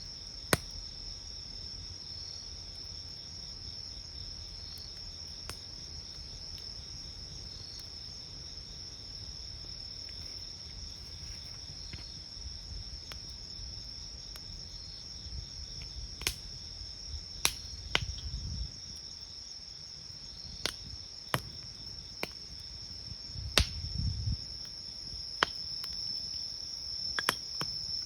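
Crickets chirping steadily in a high, unbroken trill while a wood campfire pops and snaps, with sharp cracks at irregular intervals, more often in the second half. Twice there is a brief low rumble.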